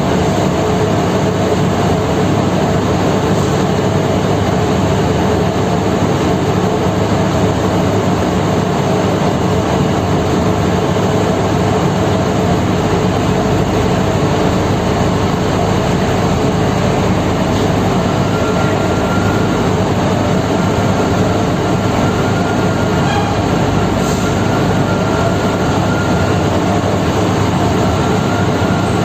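Steady, loud drone of heavy diesel engines on a ferry's vehicle deck, with a faint high whine joining it about two-thirds of the way through.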